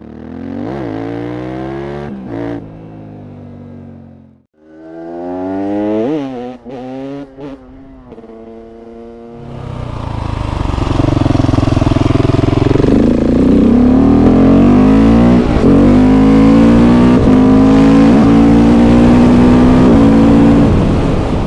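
KTM 690 SMC R's single-cylinder engine through a LeoVince exhaust, revved twice, then pulling up through the gears: each rising sweep breaks off at a shift. Loud wind rush on the microphone sets in from about ten seconds in.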